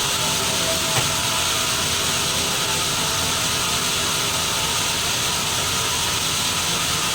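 Sawmill saw running with a steady, hissing noise and a faint whine, with one short click about a second in.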